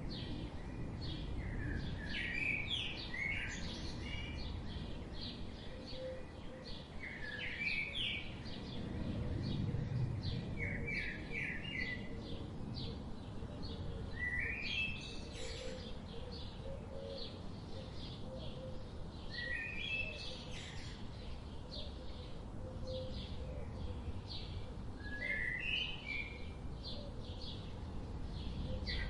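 Wild birds singing: short phrases of quick notes repeat every three to five seconds, with fainter high chips from other birds between them, over a steady low background rumble.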